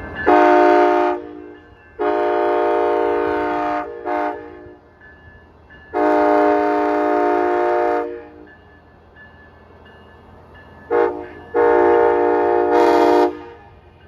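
Amtrak ALC-42 locomotive's multi-note air horn sounding a sequence of blasts, long, long, short, long, then a short and a long one near the end, over the train's low running rumble.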